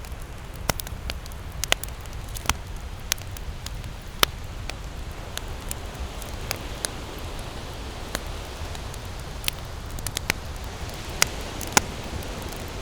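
Wood campfire crackling, with irregular sharp pops and snaps of burning wood over a steady low rush of flame.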